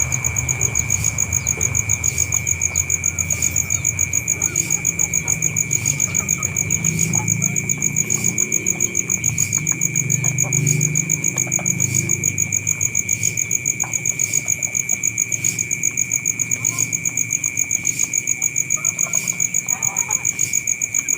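Insects chirping in an even, rapid pulse of about five or six a second at a steady high pitch, over a low rumble.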